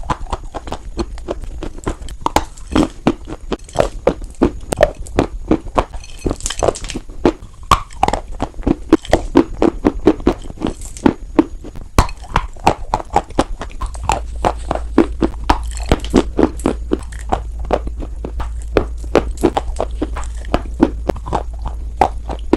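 Close-miked crunching of white chalk: a fast, irregular run of sharp crackles and snaps, several a second, with no pause. A low steady hum comes in a little past halfway.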